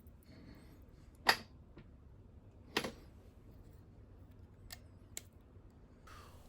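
A few light, sharp metal clicks and taps from hand tools and machine parts being handled at a milling machine, the loudest about a second in and another near three seconds, with a quiet room hiss between.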